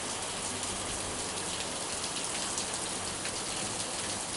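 Heavy rain pouring down steadily, a dense hiss of drops striking surfaces, the downpour getting harder.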